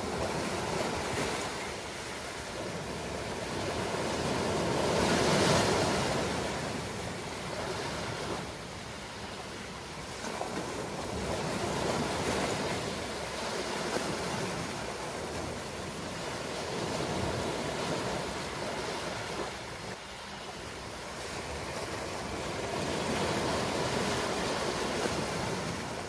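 Ocean waves breaking and washing ashore, a steady rush that swells and fades in slow surges every several seconds, the biggest about five seconds in.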